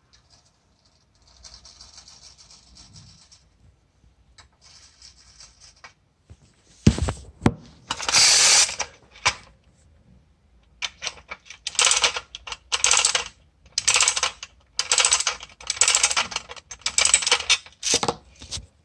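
Clockwork tin toy police motorcycles: faint rasping clockwork sounds early on, then from about seven seconds in the wound-up mechanism runs in loud, short, repeated bursts of whirring and clattering.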